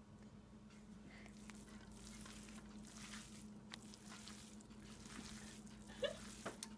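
Faint wet food-handling sounds: soft squishing of a soft casserole filling being worked in a dish, with a few light clicks of a utensil.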